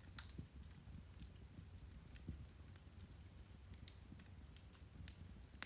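Irish turf (peat) fire crackling softly, with sparse, irregular small pops and ticks over a steady low rumble.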